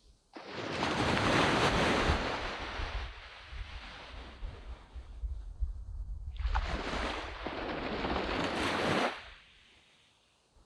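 Sea waves breaking and washing up a sandy beach. One surge comes in sharply about half a second in and fades away over several seconds. Two more surges follow close together from about six seconds and drop off suddenly near nine seconds.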